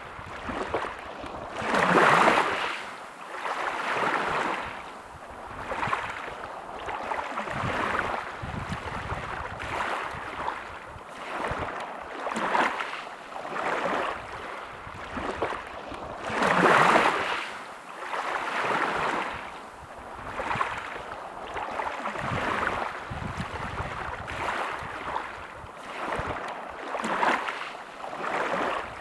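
Small sea waves washing on a beach, each wash rising and falling every second or two, with two bigger waves breaking about two seconds in and around the middle.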